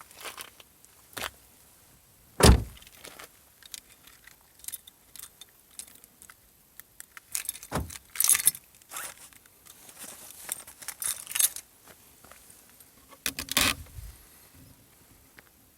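Irregular clattering and rustling with scattered knocks, and one loud thump about two and a half seconds in.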